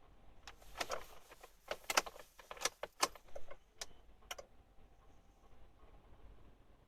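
Car keys jangling, a cluster of light metallic clinks and jingles lasting about four seconds before the diesel engine has started.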